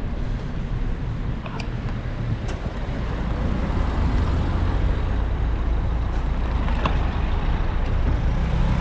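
Steady low rumble of a road vehicle running, with a few faint clicks.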